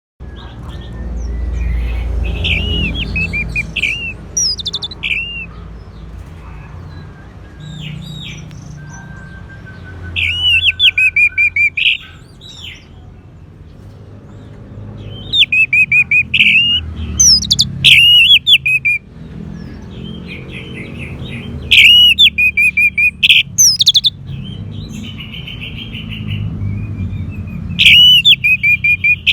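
Orange-headed thrush singing: loud phrases of quick repeated notes, coming in bursts every few seconds, over a low background rumble.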